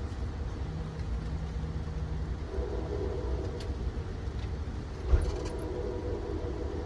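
Steady low rumble of a passenger train rolling along the track, heard from aboard, with one sharp knock about five seconds in.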